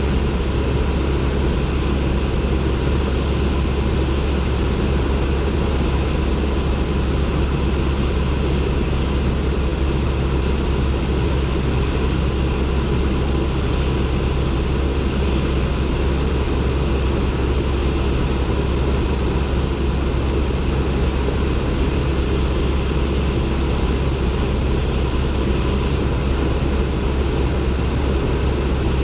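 Cessna 172N's four-cylinder piston engine and propeller running steadily, a constant deep drone with no change in power.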